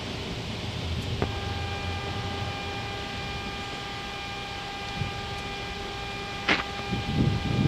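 Cockpit of an Airbus A321neo in the initial climb after takeoff: a steady wash of airflow and engine noise. About a second in a steady electronic tone starts and holds until near the end, and a sharp click comes shortly before it stops.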